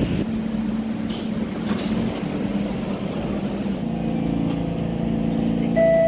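SMRT C651 train standing at the platform, its onboard equipment giving a steady electrical hum. About four seconds in, more steady tones join the hum, and near the end a loud steady higher tone starts.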